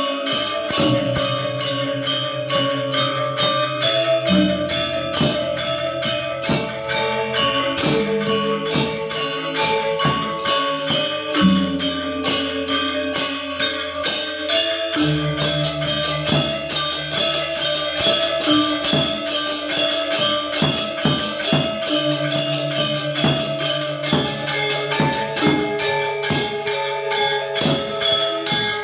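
Balinese gamelan gong ensemble playing: a dense, fast run of struck metal keys over long low gong tones, the low tone changing pitch about four, twelve and fifteen seconds in.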